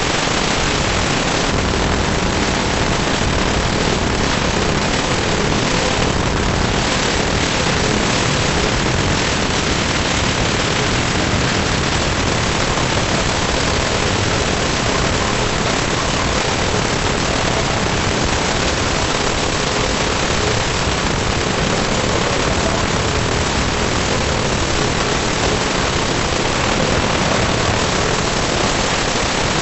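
Loud, steady static-like hiss with no distinct tones or beats: a 'wha wha' sound effect sped up so many times that it has blurred into continuous noise.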